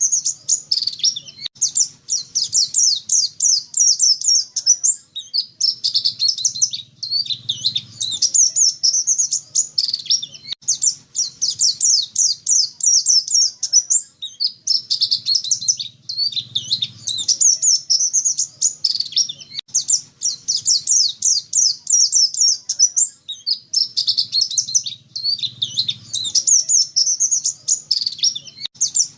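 Pleci dakun (white-eye) singing long, fast, high-pitched twittering phrases, each lasting a few seconds with brief pauses between. It is a lure song (pancingan) for prompting other white-eyes to sing.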